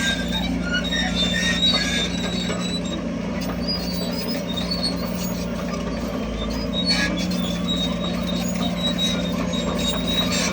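Crawler bulldozer working: its diesel engine runs steadily while the tracks give off many short, high metallic squeaks.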